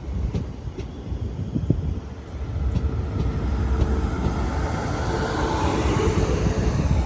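A passing train: sharp wheel clicks at first, then a louder, steady running noise that builds over the last few seconds and cuts off abruptly.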